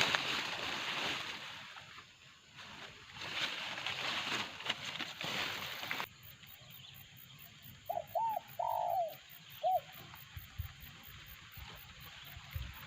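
Rustling noise for the first several seconds, then spotted doves cooing: four short coos with rising and falling pitch, close together, about two-thirds of the way in, the third one longer.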